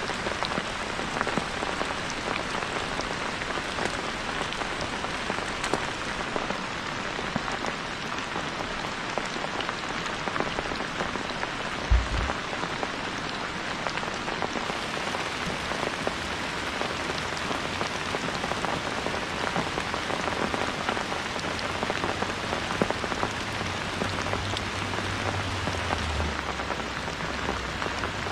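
Steady rain falling, with many small drop ticks through an even hiss. A single low thump comes about twelve seconds in, and a low rumble comes in over the last few seconds.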